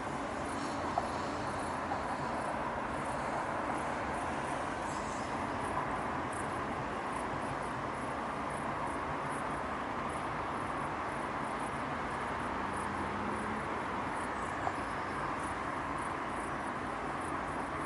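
Steady hum of city traffic, with a few faint high chirps and small clicks.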